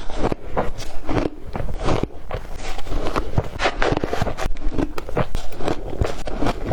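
Ice being bitten and chewed: a quick, uneven run of crisp crunches and cracks.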